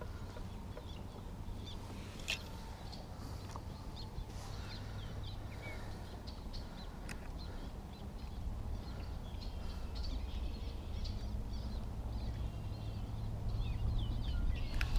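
Small birds chirping and singing, many short calls over and over, above a low steady hum; one sharp click about two seconds in.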